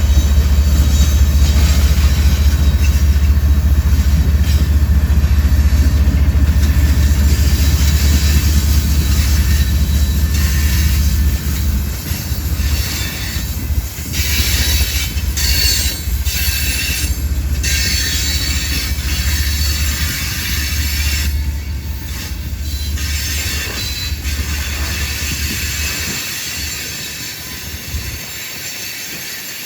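Freight train cars rolling past, a heavy rumble of steel wheels on rail with wheel squeal. The deep rumble drops away after about eleven seconds, squealing rises for a few seconds after that, and the sound slowly eases toward the end.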